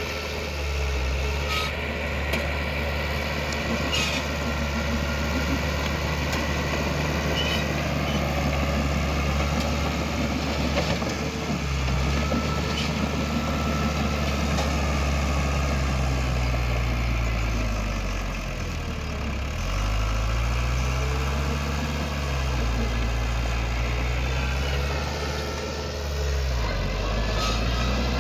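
Heavy diesel engine of earthmoving machinery running under load, its pitch sagging and recovering twice, in the middle and near the end. A few short knocks sound in the first few seconds.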